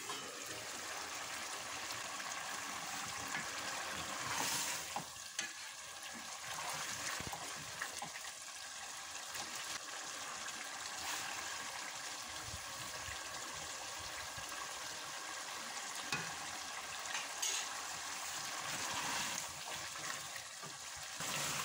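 Diced turnips sizzling in oil and masala in an aluminium pot, stirred with a wooden spoon that scrapes through them, with a few louder knocks against the pot.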